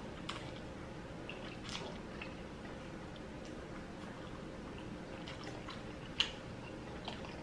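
Faint mouth sounds of a person chewing a mouthful of spicy noodles, with scattered soft clicks and one sharper click about six seconds in.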